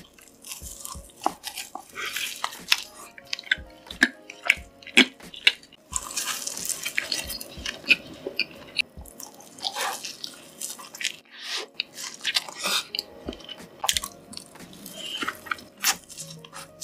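Close-miked crunching and chewing of Hot Cheetos–crusted fried chicken: crisp cracks of the coating as it is bitten and chewed, with wetter mouth sounds in between.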